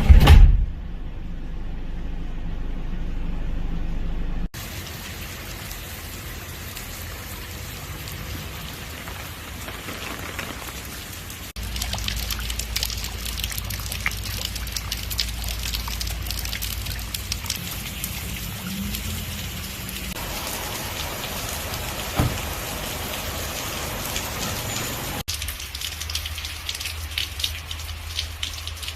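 Steady rain falling, with drops pattering on surfaces. Right at the start there is a brief loud burst, and the rain sound changes abruptly three times as the shots change.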